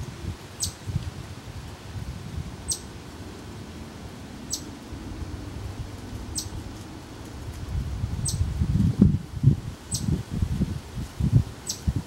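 A bird calling: a short, high, down-slurred note repeated about every two seconds. From about two-thirds of the way in, it is joined by louder low thumps and rustling.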